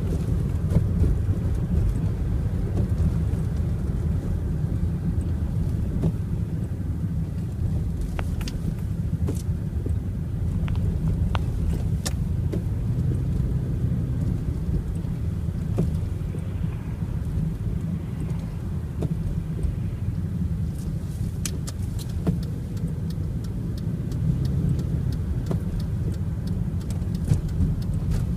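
Strong wind of about 17 m/s buffeting the microphone, a steady low rumble with scattered faint clicks.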